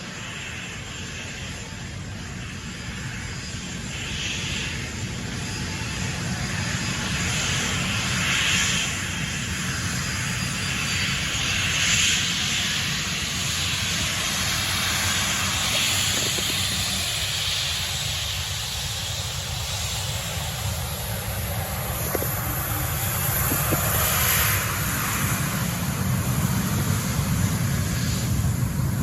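Regional jet airliner's turbofan engines running: a steady rushing, hissing jet noise that swells gradually over the first several seconds and stays loud.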